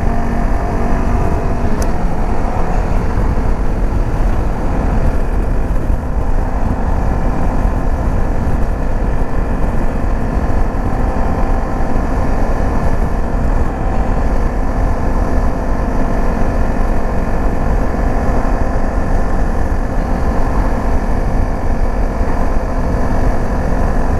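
Dirt bike engine running steadily while riding, with heavy wind rumble on the microphone.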